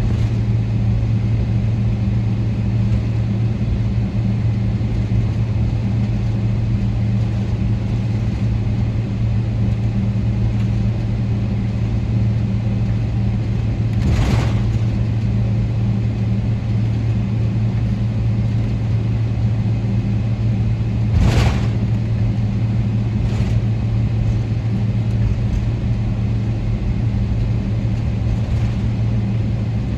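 Steady cabin noise inside a Boeing 777-300ER: a constant low hum over an even rushing noise, with a few brief clicks about halfway through.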